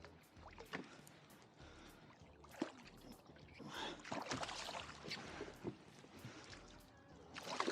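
Water splashing around a kayak, loudest in the middle, with scattered small clicks and knocks.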